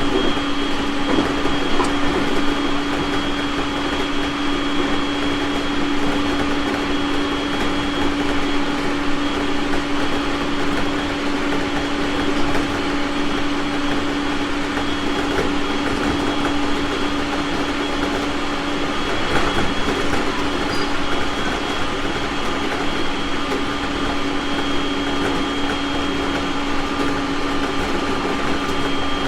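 Onboard sound of a JR East 701 series electric multiple unit: a steady hum with a constant tone over an even rumbling noise.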